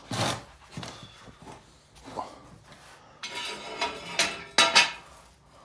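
Metal jack stand being shoved and knocked into place under a jacked-up car: scraping with sharp metal clanks, the loudest a few clanks about four to five seconds in.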